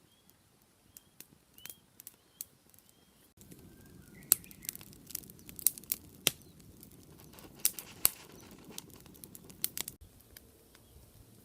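A small bird chirps repeatedly with short rising calls for the first couple of seconds, over scattered sharp clicks and snaps that come thickest in the middle.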